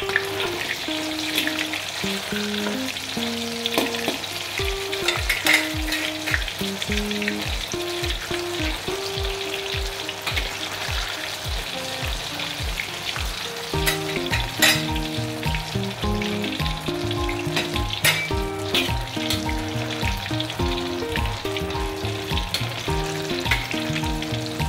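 Egg and silken tofu batter sizzling as it fries in hot oil in a wok, with scattered sharp pops and scrapes as a spatula stirs it. Background music plays over it, a steady beat coming in about five seconds in.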